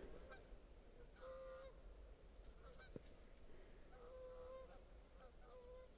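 Geese honking in the distance: a few faint, drawn-out calls about a second in, around four seconds and again near the end. A single sharp click about halfway through.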